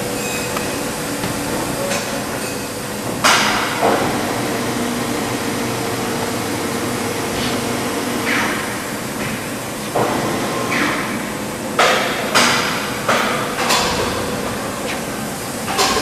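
Sharp knocks and clanks, singly at first and then several in quick succession in the second half, as a jet-engine rotor assembly is lowered by hoist into the grinder's pedestals, over the steady hum of the machine shop.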